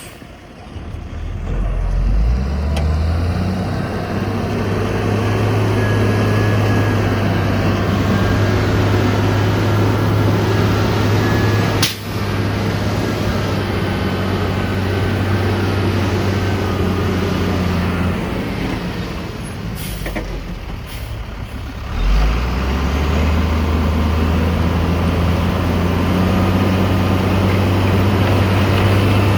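Heavy diesel engine of earthmoving machinery running hard, its note climbing about two seconds in, easing off around eighteen seconds and rising again about twenty-two seconds in.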